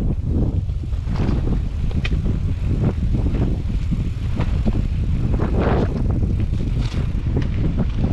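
Strong wind buffeting the microphone: a loud constant low rumble with repeated gusty surges of hiss.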